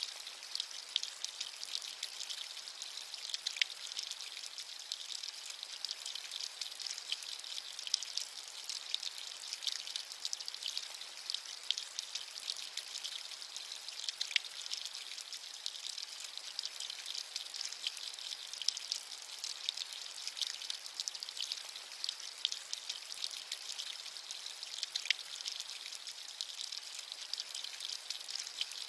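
Steady rain with a dense patter of individual drops ticking throughout.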